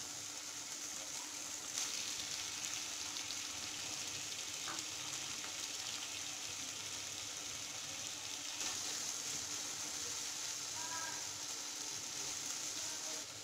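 Chicken and onion pieces frying in oil in a nonstick pan with freshly added chopped tomatoes: a steady sizzling hiss that gets a little louder about two seconds in and again near nine seconds.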